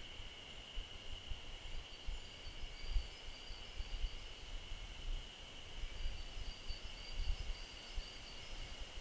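Forest ambience: a steady high-pitched insect drone with faint repeated chirping above it, over a low, gusty rumble.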